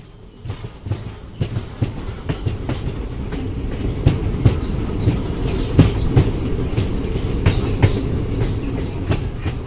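Passenger train coach running across a river bridge: wheels clattering over the rail joints in irregular sharp clicks over a steady low rumble, growing louder over the first few seconds.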